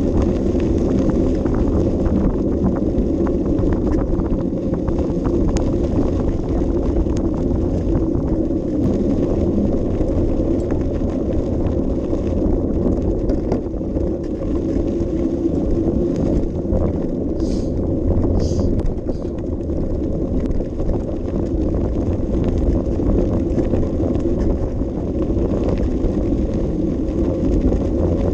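Bicycle riding with a camera mounted on it: a steady rumble of wind on the microphone mixed with the rattle of the bike rolling. Two short high sounds come about a second apart, roughly two-thirds of the way through.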